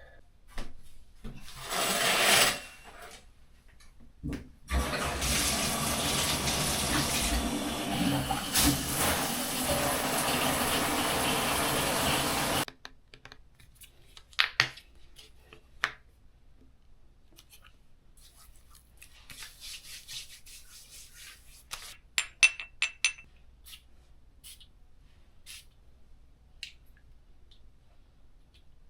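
Rushing water runs for about eight seconds and cuts off suddenly, after a short burst of the same noise just before. It is followed by a few faint clicks and clinks.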